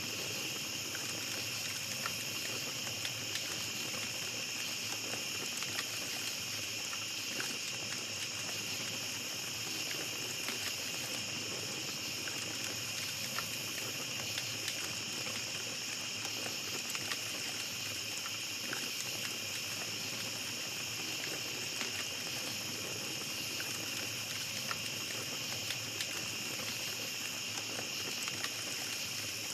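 Small campfire crackling, with scattered sharp pops, over a steady high chorus of night insects.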